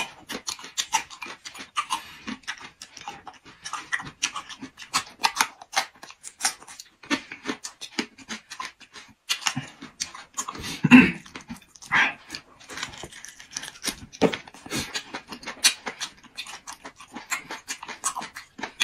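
Close-miked chewing and wet lip-smacking of boiled beef large intestine, with raw garlic, several smacks a second, along with breathing through the mouth; a louder slurping smack about eleven seconds in.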